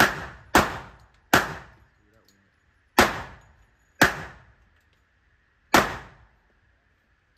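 Six handgun shots fired at an uneven pace, three in quick succession and then three more spaced about a second or more apart, each followed by an echoing tail.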